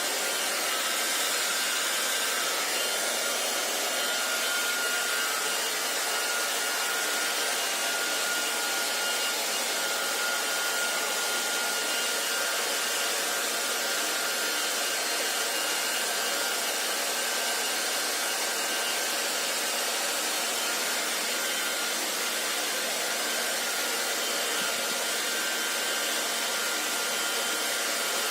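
Hair dryer running steadily: an even rush of air with a faint high motor whine.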